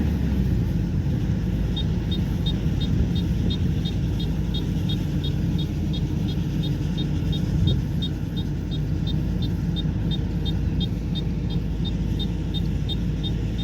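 Kubota combine harvester running steadily with a low engine rumble. From about two seconds in, a rapid, regular high-pitched chirping repeats about four times a second over the top.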